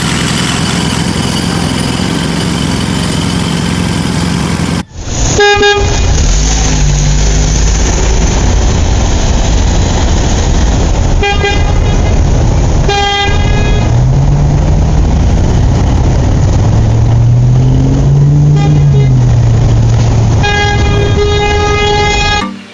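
A motor vehicle's engine running loudly, and after a sudden cut about five seconds in, a vehicle horn tooting several short blasts over the engine's low rumble. The engine pitch rises and falls between the toots, and a longer honk comes near the end.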